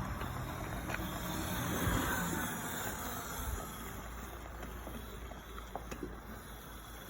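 Wind rumbling on the microphone over a small electric motorbike running, swelling about two seconds in and then fading.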